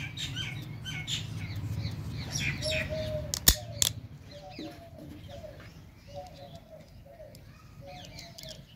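Small birds chirping over and over in the background, with a low hum through the first few seconds. A couple of sharp clicks come about three and a half seconds in.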